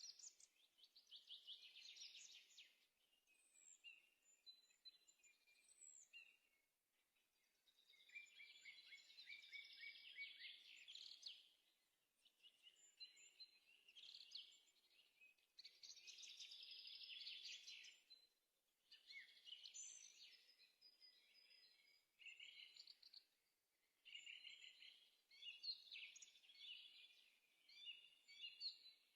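Faint birdsong: a songbird singing in phrases of rapid trills and chirps a few seconds long, with short pauses between them.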